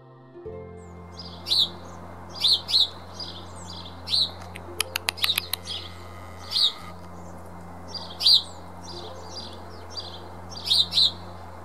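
Small winter songbirds calling, short sharp chirps every second or so, with quick runs of clicking notes about five seconds in and again at the end, over a steady low hum.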